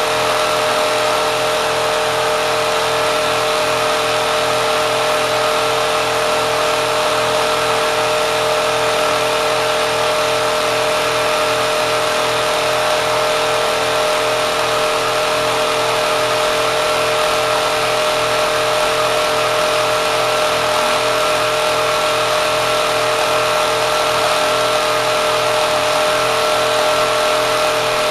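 Kenmore sewing machine driven by a swapped-in 3/4 hp electric motor, running flat out at a steady high speed with a constant whine over mechanical clatter. So little of its mechanism is left attached that it is only spinning the crankshaft.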